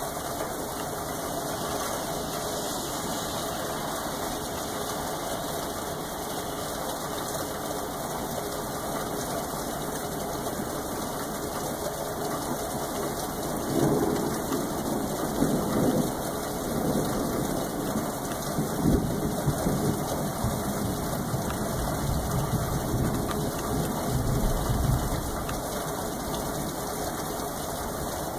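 Steady rain falling. About halfway through, a low, rolling rumble of thunder builds in and swells unevenly for around ten seconds before fading back to the rain.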